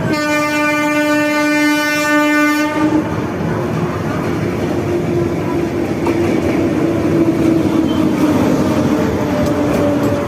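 Train horn sounding one long blast of about two and a half seconds, then the steady rumble and wheel clatter of a passing train, with a fainter drawn-out tone that runs on until near the end.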